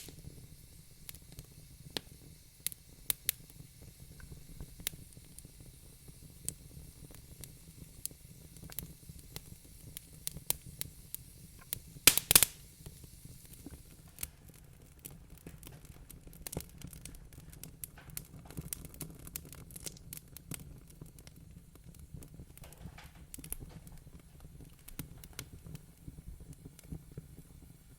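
Wood fire crackling in a fireplace: irregular sharp pops and snaps, with a quick cluster of louder pops about twelve seconds in, over a low steady hum.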